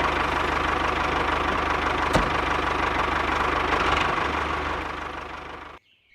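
Small engine running steadily at an even idle with a fast pulsing beat, fading out near the end.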